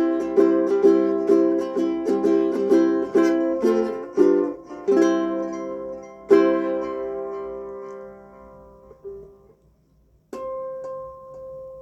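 Ukulele strumming the song's closing chords, with a last strummed chord at about six seconds in that is left to ring and fade. Near the end comes a single plucked harmonic, a clear bell-like note.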